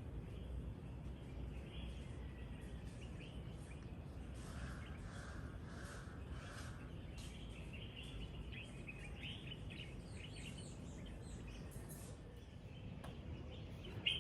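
Faint morning birdsong: scattered high chirps and calls over a low steady background rumble, with a short run of four lower, evenly spaced notes about halfway through.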